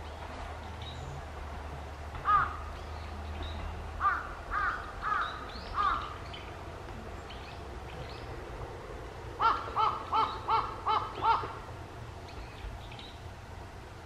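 Bird calls, clear and loud: a single call, then four spaced about half a second apart, then a quicker run of six.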